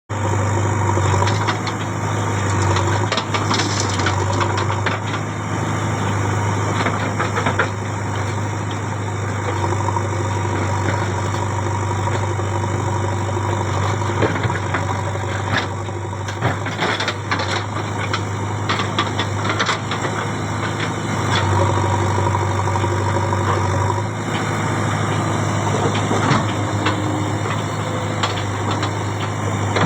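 Farm tractor diesel engine running steadily, with many short clicks and knocks scattered over it.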